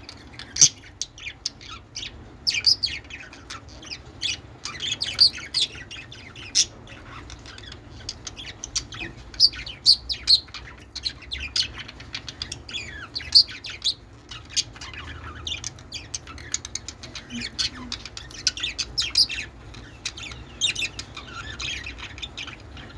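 Pet budgerigars chattering and chirping: a dense run of short, high chirps and warbles that goes on without a break.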